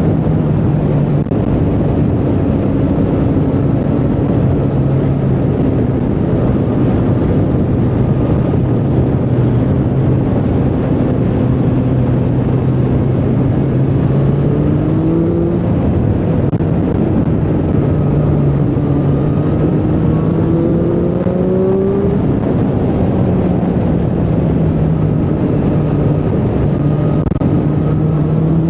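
Triumph Street Triple 765R's inline three-cylinder engine running at road speed, its note climbing twice as the throttle is opened and then settling back, over a constant rush of wind and road noise.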